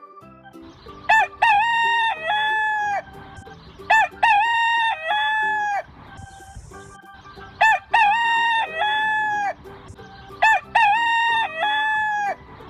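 Rooster crowing four times, each cock-a-doodle-doo about two seconds long and ending on a falling note, over quiet background music.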